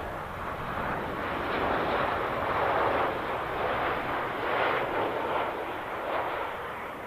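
Airliner engine noise, a rough wavering rumble that is louder just before and eases off at the start, then swells and fades irregularly.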